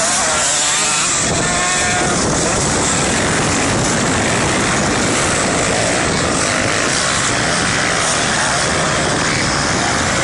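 Motocross dirt bike engine under a loud, steady rushing noise, its pitch briefly rising and falling in the first two seconds.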